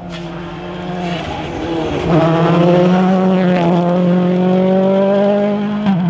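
Rally car engine at high revs on a special stage: the note breaks up about a second in, then climbs slowly and steadily under load, with a sharp crack just before the end.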